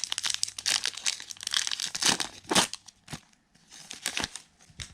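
Wrappers of 2021 Topps Heritage baseball card packs being crinkled and torn open by hand: a dense run of crackling for about three seconds, a short lull, then a few more crinkles.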